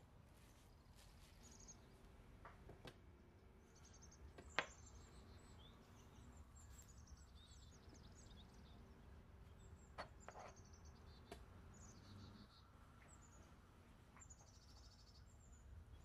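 Near silence with faint small birds chirping repeatedly in the background, and a few sharp clicks, the loudest about four seconds in.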